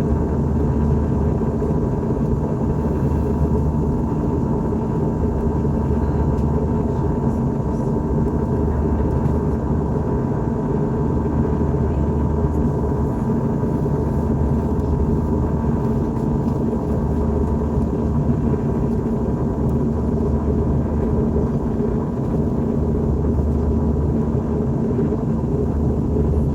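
Steady drone of engine and airflow noise heard inside the cabin of an Airbus A321-211 in flight, with a few faint steady hum tones running through it.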